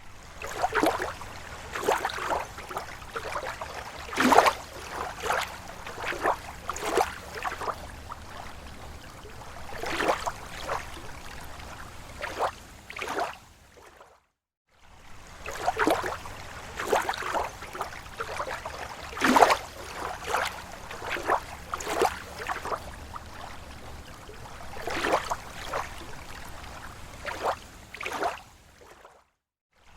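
Small waves lapping against a lake shore: irregular splashes and gurgles of water. The sound cuts out briefly about halfway through and again just before the end, and the same stretch of lapping repeats after the first cut.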